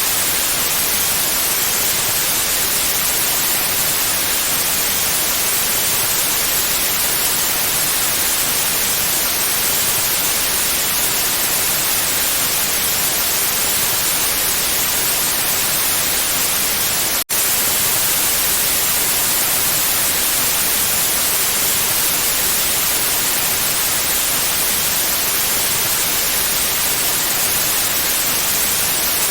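Steady white noise, an even hiss that is brightest in the high frequencies, with a split-second dropout a little past halfway through.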